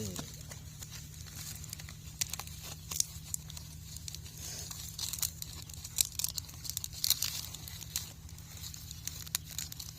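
Leaves and twigs rustling and crinkling as they are handled, with scattered sharp snaps and crackles over a steady low hum.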